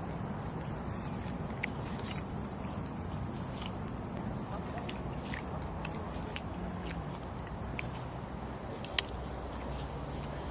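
Insects chirring in a steady, high-pitched chorus, with a few scattered light clicks and one sharper click about nine seconds in.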